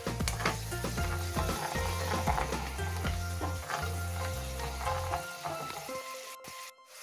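Sliced shallots, lemongrass and chilies sizzling in hot oil in a wok, with a metal slotted ladle scraping and knocking against the pan as they are stirred. The sound cuts out briefly near the end.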